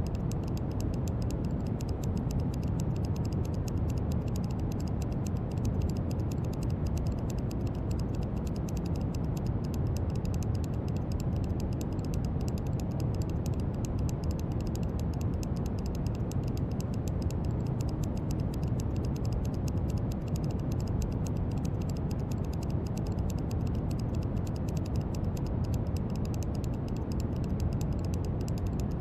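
Steady brown noise: an even, unbroken noise weighted heavily toward the low end, with little in the highs.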